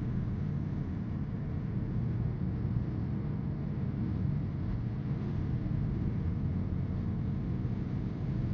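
Steady low rumbling noise with no distinct events in it.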